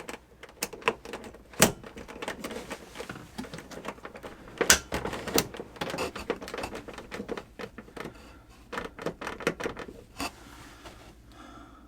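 Irregular clicks, taps and knocks of plumbing fittings and tools being handled: a new connection being fitted to a leaking freshwater line. A few louder knocks stand out among the smaller clicks.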